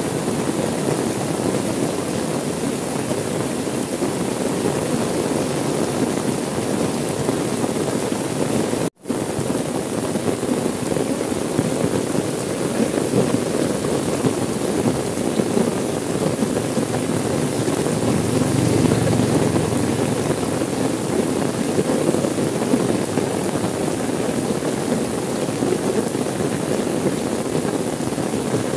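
Steady rain falling on a car window, heard from inside the car, with a split-second dropout about nine seconds in.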